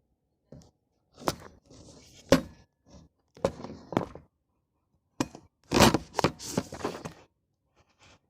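A series of irregular knocks, scrapes and rattles from things being moved about inside a dishwasher, loudest about six seconds in.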